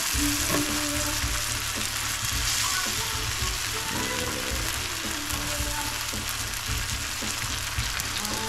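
Food sizzling steadily in a hot oiled pan as it is sautéed.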